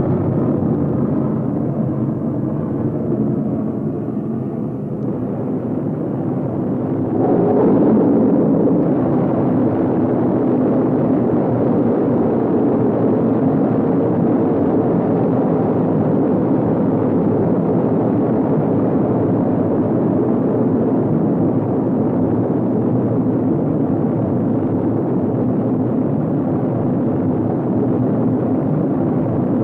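A sustained, loud, rumbling roar, growing louder about seven seconds in and then holding steady.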